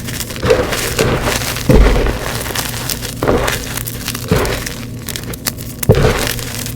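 Gym chalk being crushed and crumbled, a dense run of crunches and crackles with louder cracks about two seconds in and again about six seconds in.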